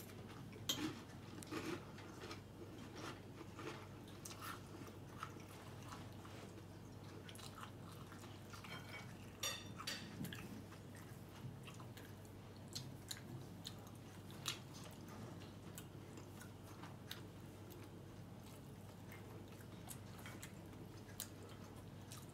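A person chewing and eating, with scattered light clicks and taps of a fork against a plate.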